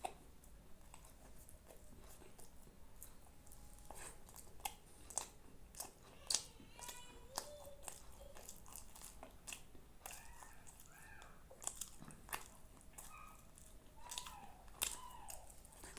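A person chewing and biting food close to the microphone, with many short irregular clicks of mouth and food sounds.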